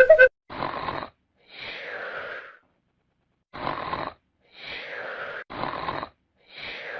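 Snoring: three slow breaths, each a short rasping intake followed by a longer wheezy out-breath, with silent gaps between.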